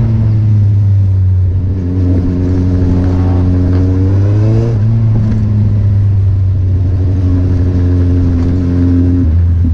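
Kawasaki Z800 inline-four motorcycle engine pulling under way: the revs climb for a few seconds, fall sharply about halfway at an upshift, then hold fairly steady, with another drop near the end.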